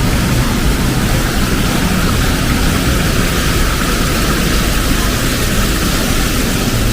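Heavy rain falling in a steady, loud hiss, with a low rumble of street traffic underneath.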